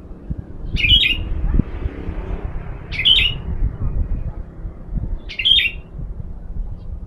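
Sooty-headed bulbul giving three short, sharp calls about two seconds apart, over a low rumble of wind on the microphone.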